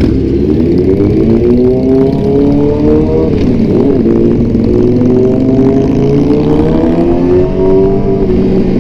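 Sport motorcycle with an Austin Racing aftermarket exhaust under way at highway speed. The engine note climbs steadily, dips briefly about four seconds in, then climbs again.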